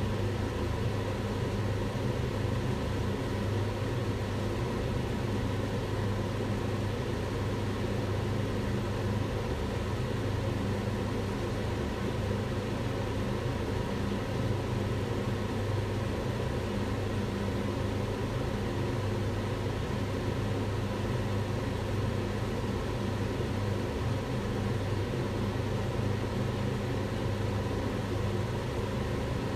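Kitchen extractor hood fan running steadily: an even rushing of air over a low motor hum.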